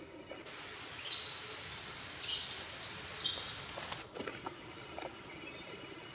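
Forest bird calling: three high, rising trills about a second apart, then a run of shorter high trilled notes, over a steady forest background hiss.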